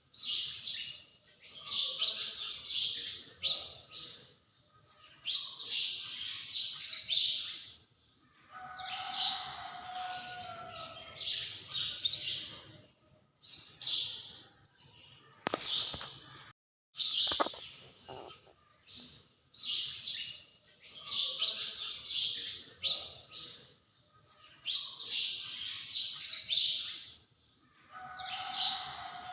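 Birds chirping in repeated bursts of high calls, with a brief cut to silence about halfway through.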